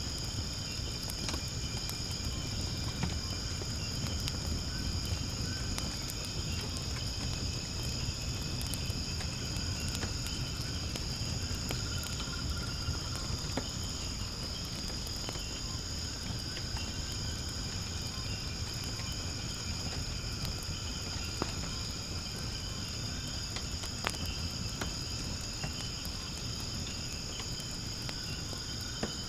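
Firewood burning in a fire pit, with scattered small crackles and pops and a low steady rumble, under a continuous high-pitched chorus of crickets.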